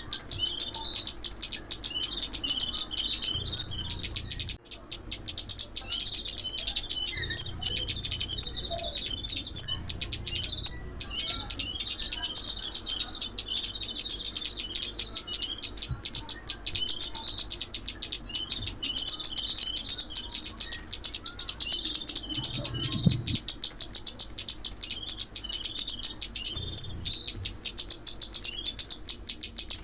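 Sunbird song: a dense, rapid, high-pitched twittering that runs on with only brief breaks, played as a trapping lure call.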